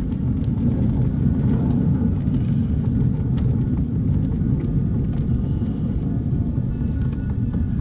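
A 7¼-inch gauge miniature train running along its track, heard from aboard: a steady low rumble with a few faint clicks.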